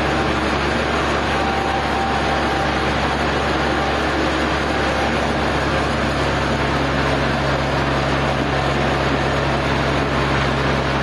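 Sawmill machinery running steadily: a constant mechanical noise over a low, even hum.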